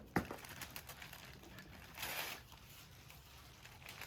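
Gift wrapping being rustled and torn, with a brief falling squeal just after the start and a louder rip about two seconds in.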